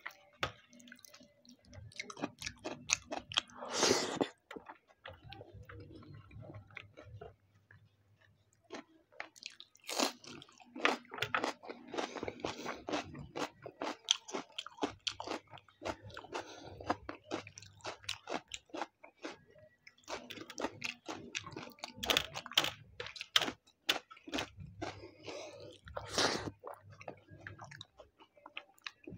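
Close-miked chewing of chicken biryani eaten by hand: wet mouth clicks and crunches in irregular bouts, with a couple of short pauses between mouthfuls.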